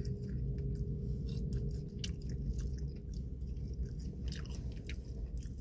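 A person chewing fries dipped in sauce, with scattered short crunching and mouth clicks over a steady low hum.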